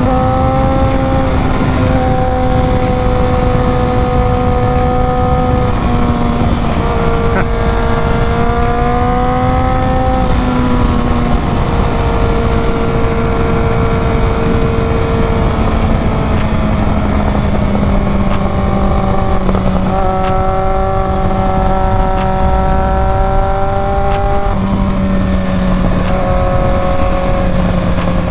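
2001 Yamaha R1's inline-four engine running at road speed under heavy wind rush on the microphone. Its note holds steady for stretches, sags slowly and steps up or down a few times as the rider rolls the throttle and changes gear.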